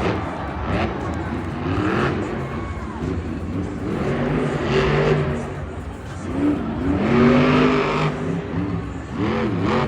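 Monster truck engine revving hard again and again, its pitch swinging up and down every second or two.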